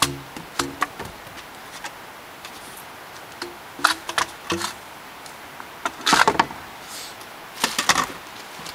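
Knocks and scrapes of a potato being rammed down a PVC potato cannon barrel, some knocks with a short hollow ring from the pipe. They come in separate groups, with the densest clatter a little past the middle and again near the end.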